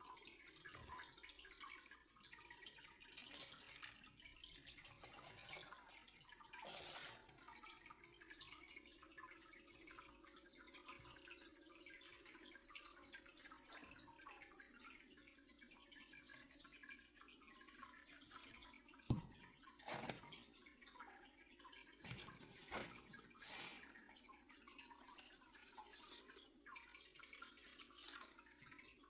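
Faint running and dripping water, with a few soft knocks about two-thirds of the way through.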